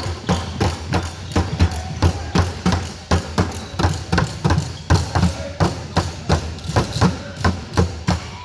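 Rapid, evenly spaced thumps, about three a second, keeping a steady beat.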